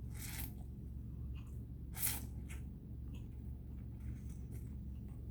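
Two short slurps of spicy ramen noodles, about two seconds apart, the second the louder, over a low steady hum.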